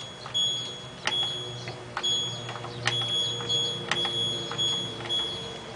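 LG F1222TD washing machine control panel beeping as the spin speed button is pressed over and over: a run of short, high, steady beeps about two a second, with a few sharp button clicks among them.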